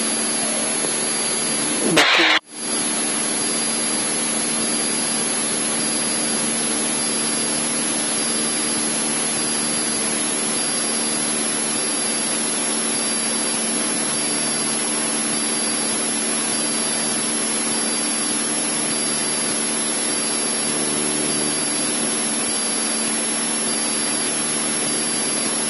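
Cessna 152's piston engine and propeller droning steadily in the cockpit during level flight. The sound cuts out briefly about two seconds in.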